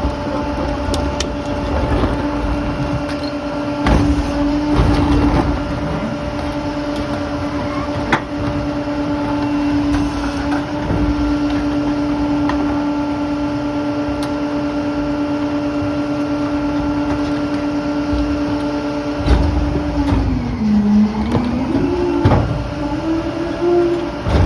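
PakMor rear-loader garbage truck's diesel engine running at a steady raised speed with a steady hum, with a few knocks and clunks. About twenty seconds in, the pitch drops and then rises and falls as the engine speed changes.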